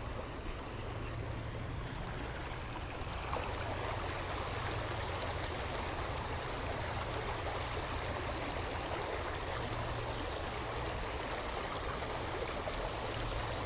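Creek water flowing steadily, a little louder from about three seconds in.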